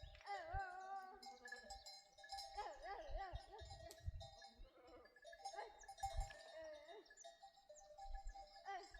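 A herd of sheep and goats bleating, many wavering calls overlapping one another, with livestock bells clinking.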